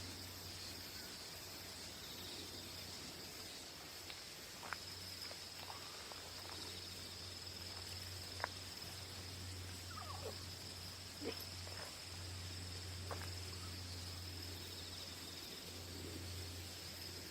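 Steady high-pitched chorus of autumn insects such as crickets, with a low steady hum beneath it. About half a dozen short, sharp chirps break in from about four seconds in, a couple of them falling in pitch.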